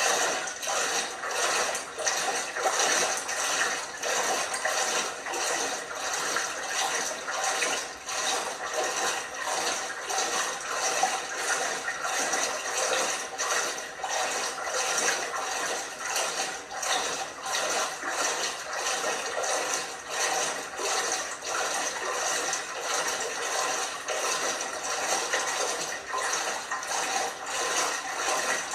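LG washing machine in its wash, water sloshing and splashing in the turning drum with a steady, regular rhythm.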